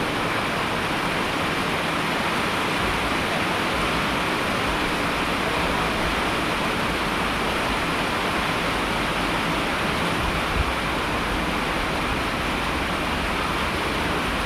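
Steady heavy rain, an even rushing hiss with no change in strength, and one brief low thump about ten seconds in.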